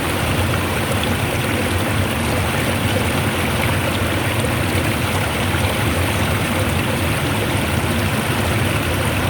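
Fast-flowing stream water rushing steadily, an even, unbroken noise of running water.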